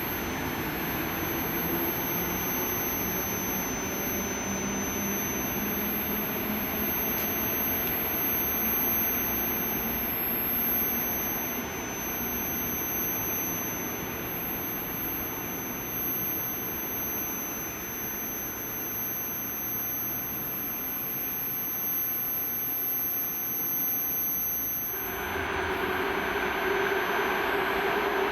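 Electric train running, a steady rolling rumble with a faint low motor whine that rises slightly in pitch during the first several seconds. About 25 s in, the sound shifts to a brighter rolling noise with a steady higher hum.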